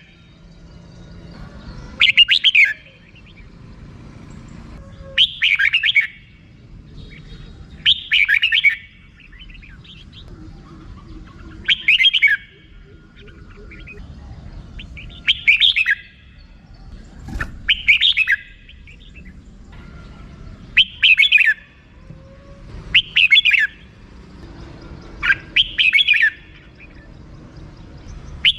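Red-whiskered bulbul giving its short, rapid 'rik' chatter call over and over, one quick burst every two and a half to three seconds.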